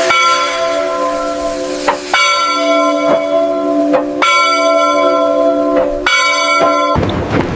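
A bell ringing, struck again about every two seconds, each stroke ringing on until the next. The ringing cuts off about seven seconds in, and a rushing hiss takes over.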